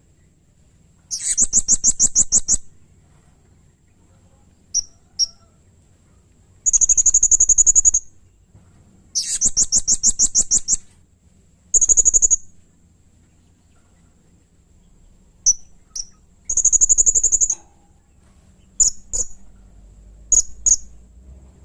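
Blue-crowned hanging parrot (serindit) calling: high, shrill, rapid trills in five bursts of about a second or more each, with short sharp chips in between.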